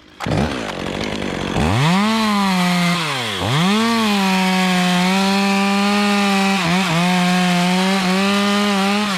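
Chainsaw revving up, dipping once, then held at high, steady revs through a slice cut on a small cypress limb before easing off near the end.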